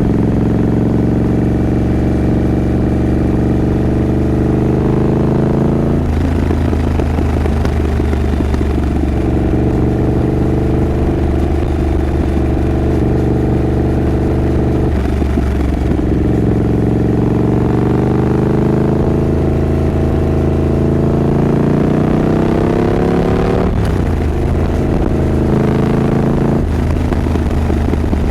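Triumph Scrambler 900's parallel-twin engine pulling through the gears, its pitch climbing over several seconds and then dropping back at each gear change, several times over.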